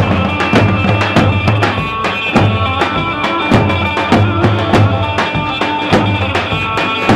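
Kurdish halay folk dance music with a steady, driving drum beat under a held, reedy melody line.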